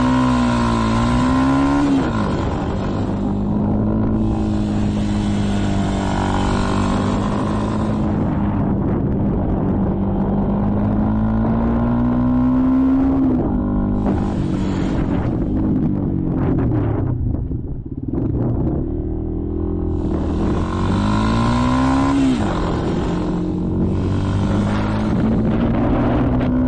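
Motorcycle engine running on the move. It revs up near the start and again about three-quarters of the way through, holds a steady pitch in between, and falls away briefly around the middle.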